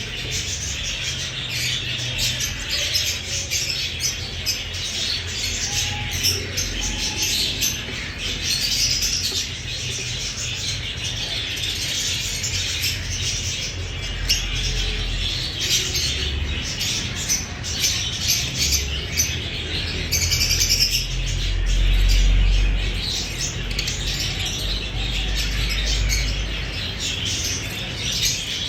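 Violet opaline lovebird chattering in a steady stream of rapid high chirps, with a low rumble swelling briefly about twenty seconds in.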